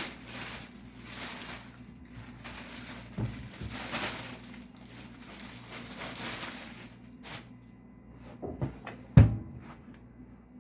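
Product packaging being handled and opened: rustling on and off for about seven seconds, then a few knocks and one loud thump about nine seconds in.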